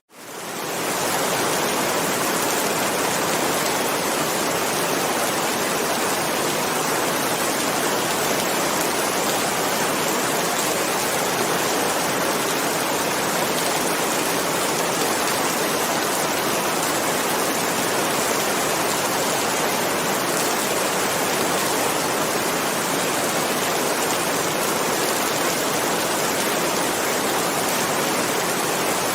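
Heavy rain falling steadily, an even rushing hiss that fades in from silence over the first second.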